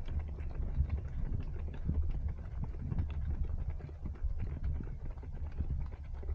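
Running footsteps at a steady pace: a regular patter of shoe strikes over a low rumble of wind and body movement on a worn action camera.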